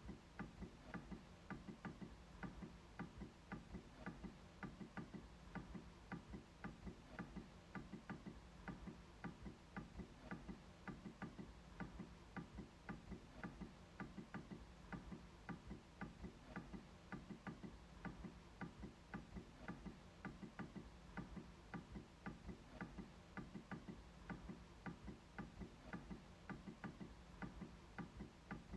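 MacBook trackpad being clicked repeatedly: quiet, short, even clicks at a steady pace of about two to three a second.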